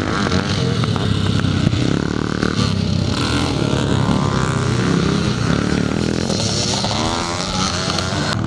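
Several classic motocross bikes racing, their engines revving up and down over one another.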